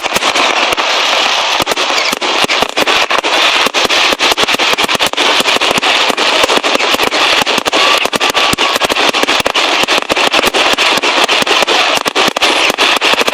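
Fireworks display going off in a rapid, unbroken run of bangs and crackles, many reports a second.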